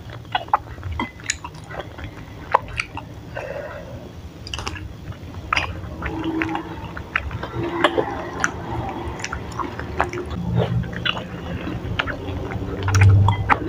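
Close-miked chewing of chewy tapioca-starch balls (bakso aci) in spicy broth, with wet mouth sounds and scattered short clicks.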